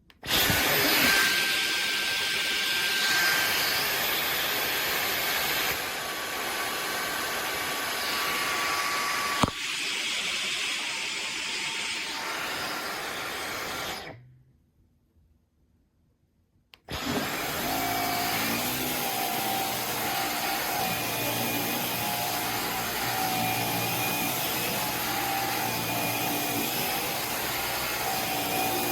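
Dyson Gen5 cordless stick vacuum starting and running steadily, with a sharp click about nine seconds in. It cuts out for about three seconds around halfway, then runs again with a slightly different tone.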